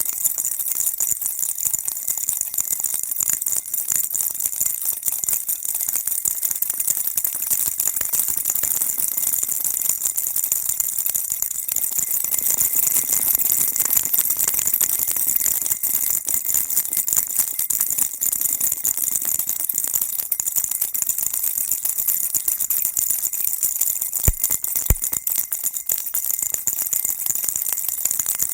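Baby rattle shaken without a break, a dense, high-pitched jingling patter with a steady ringing note in it. Near the end come two sharp knocks about half a second apart.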